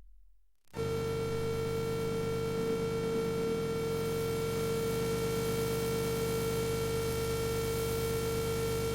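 MFOS Weird Sound Generator synthesizer holding a steady electronic drone: one unchanging tone with a low hum underneath. It starts after a brief silent gap, less than a second in.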